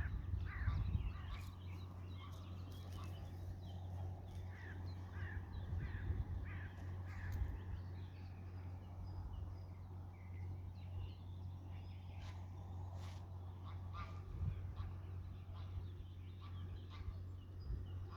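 Greylag geese calling as a flock: many short calls close together over the first half, then scattered calls, over a steady low hum.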